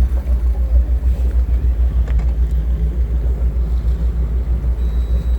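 Tour boat's engine running: a steady low rumble that throbs evenly, about six pulses a second.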